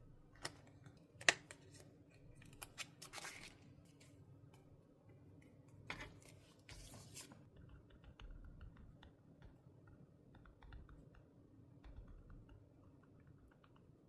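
Desk stationery and paper handling: a few sharp taps and clicks, the loudest about a second in, two short scratchy paper rustles around three and seven seconds in, then light faint ticking.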